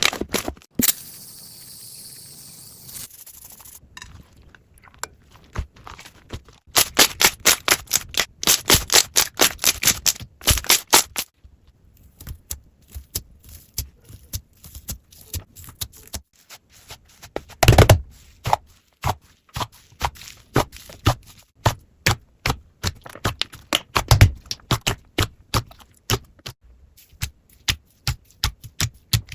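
Slime being squeezed and pressed by hand, making a long series of sharp clicks and pops. About a third of the way in the clicks come in a fast, even run of about four a second; elsewhere they are scattered, with a short hissing stretch near the start.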